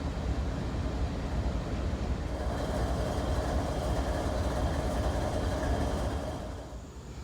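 Freight train cars rolling past on the rails, a steady rumble of wheels on track with faint high wheel squeal. The sound drops away abruptly near the end as the train passes.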